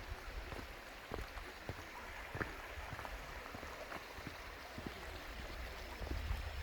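A stream running: a steady wash of water noise with scattered small clicks and plinks, over a low rumble that grows stronger near the end.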